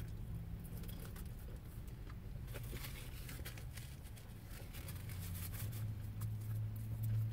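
A person chewing a mouthful of fried catfish, with small wet clicks and a paper napkin rustling against the mouth, over a steady low hum that grows louder about five seconds in.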